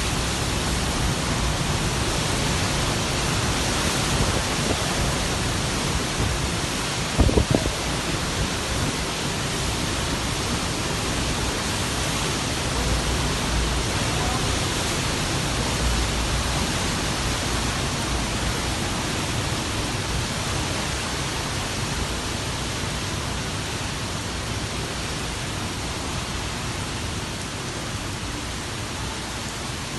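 Heavy rain falling steadily in a storm, an even rushing hiss. A brief cluster of sharp knocks stands out about seven seconds in.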